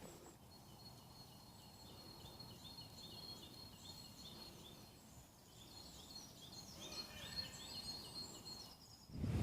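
Faint woodland birdsong: small birds giving series of short high chirps, about three a second, over a thin steady high tone.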